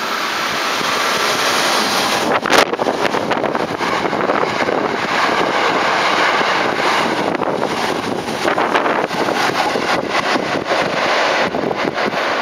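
Electric train running past close by: a loud, steady rush with rapid clattering from the wheels on the rails, and one sharp bang about two and a half seconds in.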